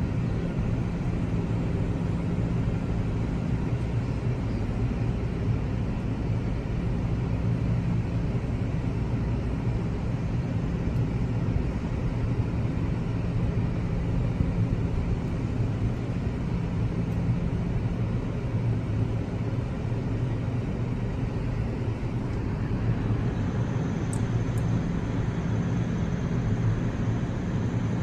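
NJ Transit multilevel commuter train standing or creeping at the station, giving a steady low hum and rumble. A faint high steady tone joins near the end.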